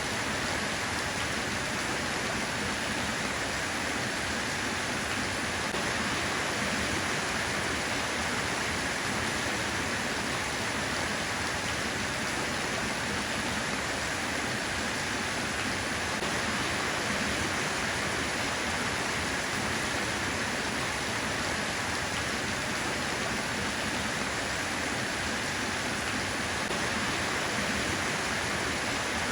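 Steady rain falling, an even, unbroken hiss with no separate drops or changes in strength.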